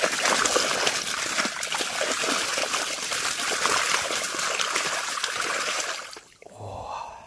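Water streaming and splashing out of a fish trap net full of tilapia as it is handled and emptied. The splashing cuts off about six seconds in.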